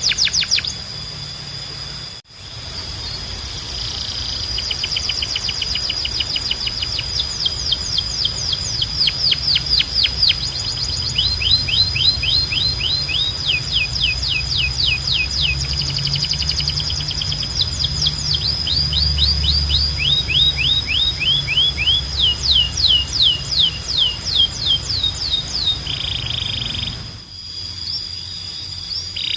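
Domestic canary singing: long trills of rapid, repeated downward-sweeping notes, each run shifting in speed and pitch, over a steady high whistle-like tone and a low hum. The song breaks off briefly about two seconds in and again near the end.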